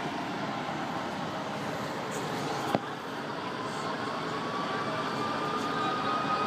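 Steady noise of vehicles running, with one sharp pop a little under three seconds in and a faint tone slowly rising in pitch through the second half.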